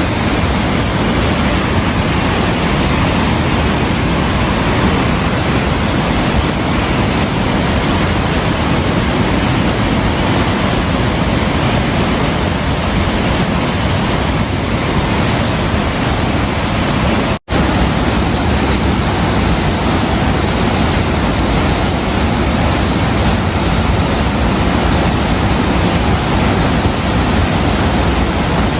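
Steady, loud rushing noise of rain, broken by a momentary dropout about 17 seconds in.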